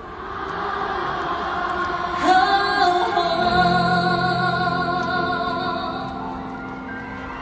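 Live pop music: a high sung voice holds a long note with vibrato over sustained band accompaniment, starting about two seconds in.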